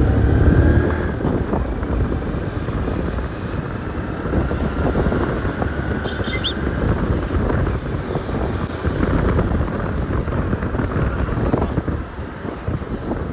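A motor vehicle running with a loud low rumble.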